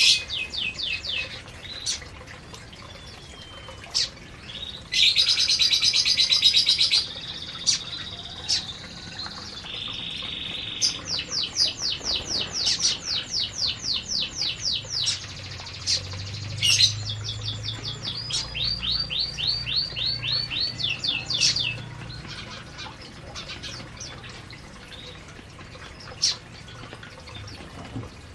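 Domestic canaries singing: rolling trills of rapidly repeated high notes, the loudest a dense fast trill about five seconds in, then longer rhythmic trills, mixed with sharp single chirps. The song thins out near the end.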